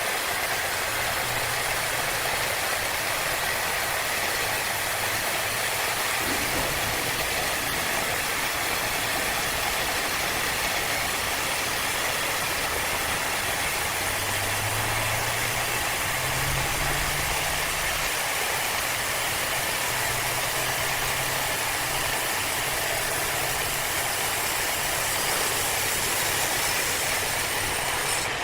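Engine-driven wood-cutting saw running steadily: a dense, even hiss over a low engine hum, the hum rising in pitch about halfway through.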